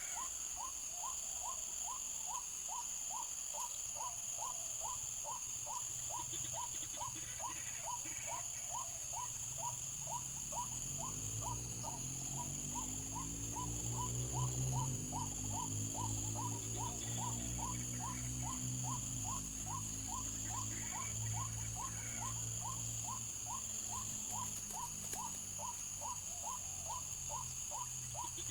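White-breasted waterhen calls repeated in a fast, even rhythm, about two or three notes a second without a break. A low drone swells and fades in the middle, and a steady high insect-like whine runs underneath.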